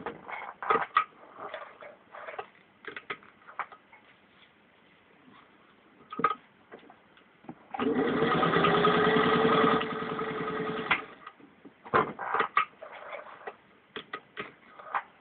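Vintage 1947 Singer 201-2 sewing machine stitching through four layers of vinyl upholstery. It runs in one steady burst of about three seconds a little past the middle, with scattered clicks and knocks before and after.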